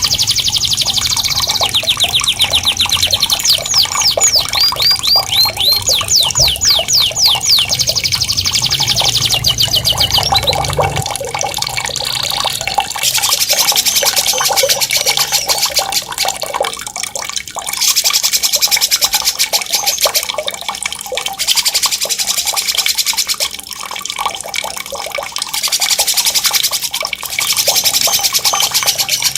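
Recorded songbird singing a fast, shrill rolling trill of rapidly repeated rising notes for about the first ten seconds. It then gives way to running, splashing water that surges and eases every few seconds.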